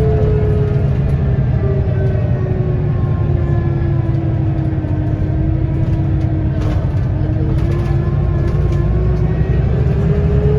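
Scania L94UB bus with a ZF automatic gearbox running, its diesel engine giving a heavy low rumble. A whine sinks slowly in pitch for about five seconds as the bus slows, then climbs again near the end as it picks up speed.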